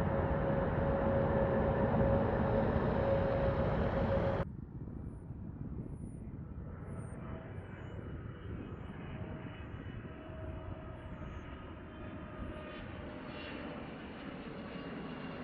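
Aircraft engines running loud with a steady whine. About four seconds in the sound cuts off abruptly to a much quieter faint engine noise, with a few faint high chirps.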